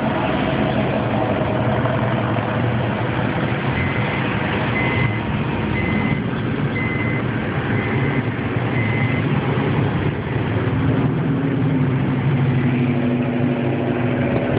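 Car and truck engines running steadily, with a short high beep repeating six times, about once a second, in the middle.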